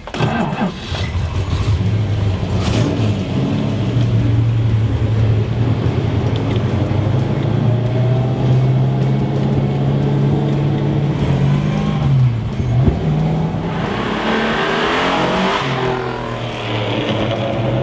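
1969 Plymouth Road Runner A12's 440 Six Pack V8 (three two-barrel carburettors) started with the key, catching right at the start and then idling on a steady low note. Near the end the engine revs up with a rising then falling pitch as the car accelerates away.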